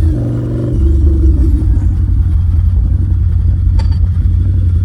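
Motorbike running on the move, with its engine note fading and a heavy low rumble taking over from about a second in.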